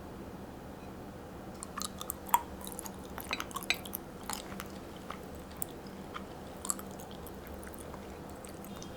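Someone eating crunchy food: irregular crisp crunches and chewing from about two seconds in until about seven seconds, over a steady low hum.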